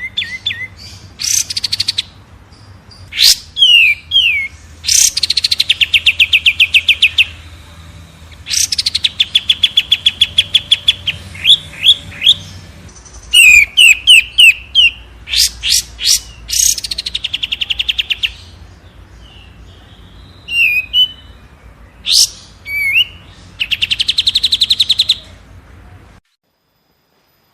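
Cage songbirds singing in short phrases: sharp sweeping whistled notes and fast, even trills, with brief pauses between phrases. The track cuts off abruptly to silence near the end.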